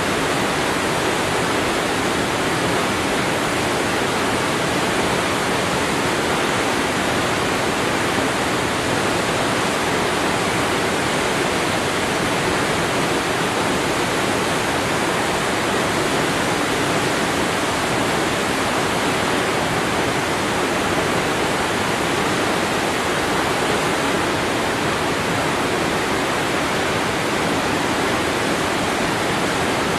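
Waterfall: falling water with a steady, even rushing.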